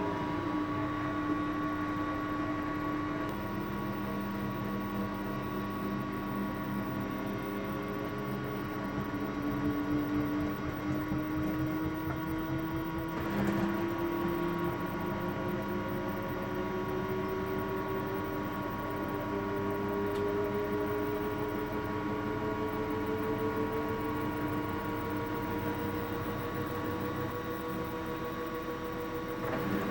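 Samsung washing machine in its spin cycle, heard from inside the drum: a steady motor hum and whine with several held tones. One tone rises slowly in pitch through the second half as the drum speeds up, and there is a brief louder noise about a third of the way in.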